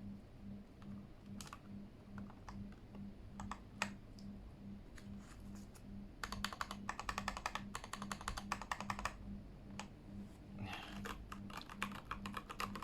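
Keychron K8 mechanical keyboard being typed on: a few scattered keystrokes, then a fast run of typing lasting about three seconds from around six seconds in, and another run near the end.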